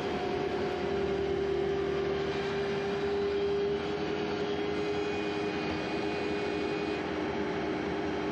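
Steady mechanical drone with a held whine, running evenly with no breaks.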